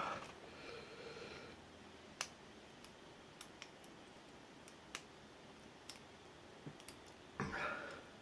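Small, sharp clicks from a lock pick working the pin stack inside an ABUS 83/45 padlock cylinder, scattered one at a time about a second apart. A faint scrape follows the opening, and a louder brief rustle of handling comes near the end.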